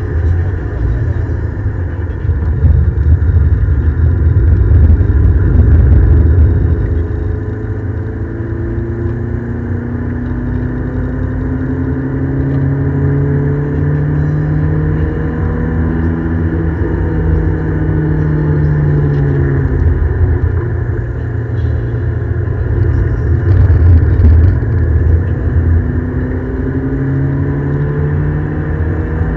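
Ford Escort XR3i's 1.8-litre 16-valve four-cylinder engine pulling hard on track, heard from inside the car over a heavy low rumble. The engine note climbs steadily, drops about two-thirds of the way through, then climbs again near the end.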